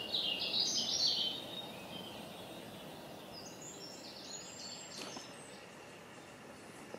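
Songbird singing: a quick phrase of high notes falling in steps, then a fainter phrase a few seconds later, over a steady low background hum.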